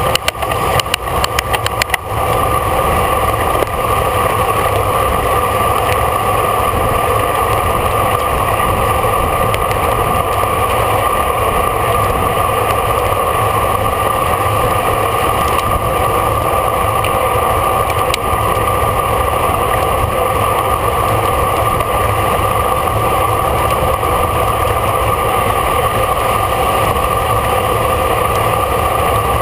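Steady wind and road noise from a bicycle riding at race speed, as picked up by a camera on the moving bike. A rapid run of sharp clicks comes in the first two seconds.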